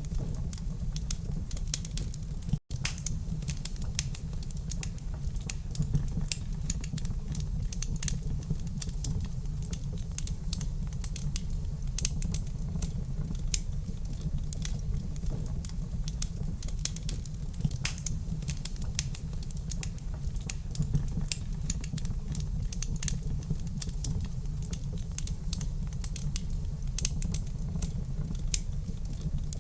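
Wood fire crackling in a fireplace: dense, irregular small snaps and pops over a steady low rumble, with a split-second dropout a couple of seconds in.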